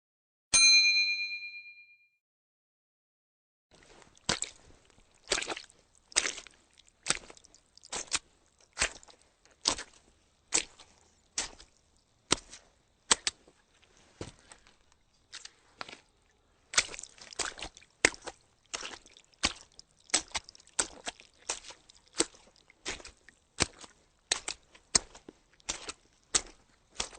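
A single bright ding that rings and fades over about a second and a half. After a pause comes a long series of sharp clicks or taps, at first about one a second, later quicker and uneven, with some in pairs.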